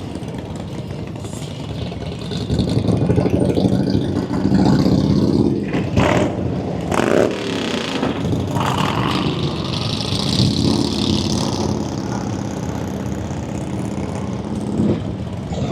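Motorcycle engines running and revving in slow street traffic, the engine note rising and falling several times, with a few sharper bursts of throttle partway through.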